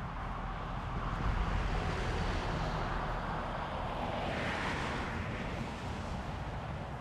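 Strong wind buffeting the action camera's microphone as a steady low rumble, under a rushing outdoor noise that swells and brightens about four to five seconds in, then eases off.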